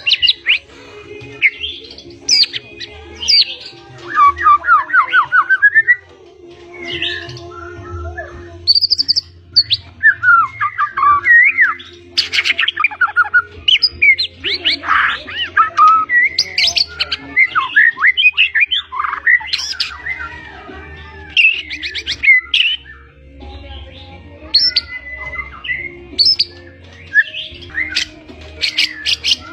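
White-rumped shama (murai batu), a pied 'blorok' bird, singing a loud, continuous, varied song: rapid whistles sweeping up and down, quick trills and harsh rasping notes in close succession, with a faint steady low hum underneath.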